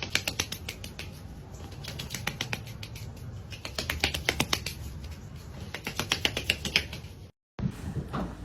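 Rapid, irregular clicking and tapping, coming in clusters of sharp clicks, which stops abruptly about seven seconds in.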